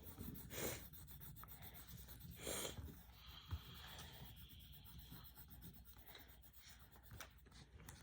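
Faint scratching of a coloured pencil shading on paper, with two slightly louder strokes in the first three seconds.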